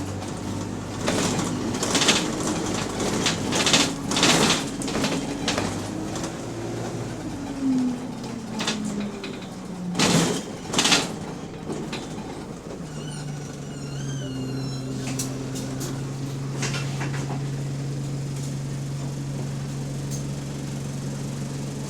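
Bus engine, heard from inside the bus: its note falls as the bus slows, with sharp bursts of air hiss about ten and eleven seconds in. It then idles with a steady low drone, and a brief wavering squeal sounds just after the idle begins.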